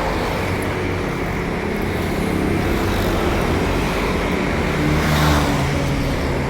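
Steady road traffic noise, with a vehicle passing and swelling louder about five seconds in.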